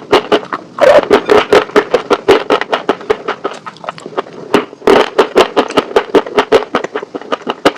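Close-miked crunching of crispy fried chicken wings being bitten and chewed: a fast run of crisp crackles, several a second, easing off briefly a little past the middle.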